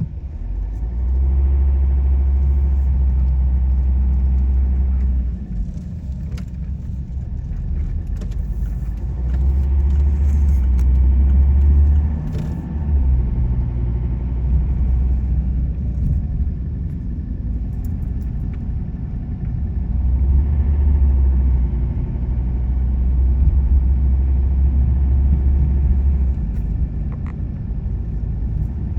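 Car driving along a road: a steady low rumble of road and engine noise that swells and eases every few seconds, with a few light clicks and rattles in the middle.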